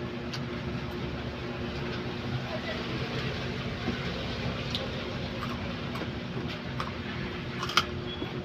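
Eating sounds: scattered small clicks and mouth noises, with one sharper click near the end, over a steady electrical hum.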